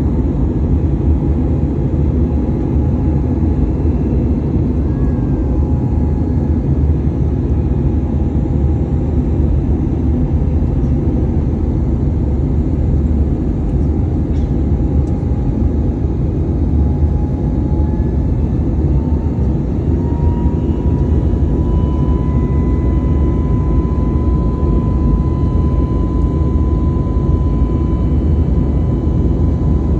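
Airliner cabin noise in flight: a steady, loud rumble of jet engines and airflow. About two-thirds of the way through, a faint whine rises in pitch and then holds steady.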